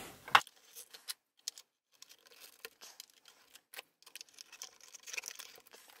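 Large plastic toy building bricks (Duplo-type) being set down and pressed onto a plastic baseplate. A scatter of faint clicks and taps, the sharpest just after the start and a quick run of small clicks near the end.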